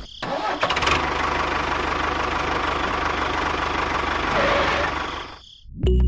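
A small motor running steadily with a fast, even pulse, cutting off suddenly about five and a half seconds in.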